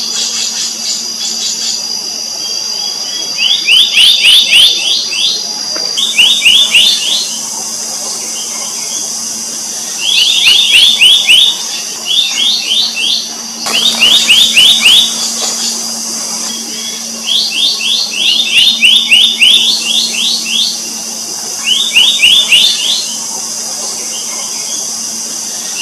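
Black-naped monarch calling: about eight short runs of quick, repeated ringing notes, each run about a second long and a few seconds apart.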